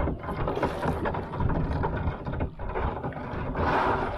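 Kayak moving on a shallow creek: paddle and water sloshing around the hull, with wind noise on the microphone and a louder rush of water near the end.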